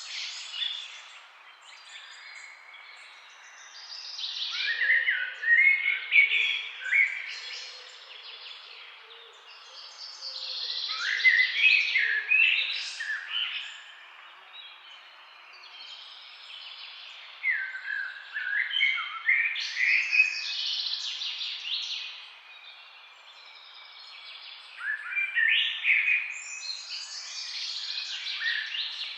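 Songbirds chirping and trilling in bursts of a few seconds, with short lulls between, over a steady faint hiss.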